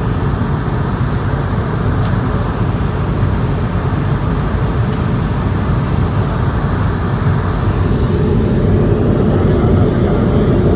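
Steady cabin noise of an Airbus A220-100 in flight, heard inside the passenger cabin: the drone of airflow and engines, growing slightly louder near the end.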